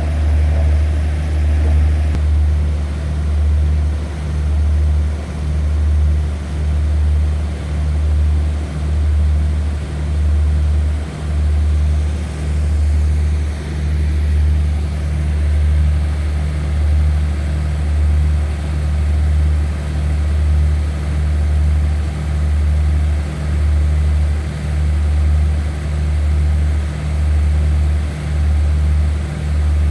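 Diesel train engine idling with a steady low rumble that swells and fades about once a second.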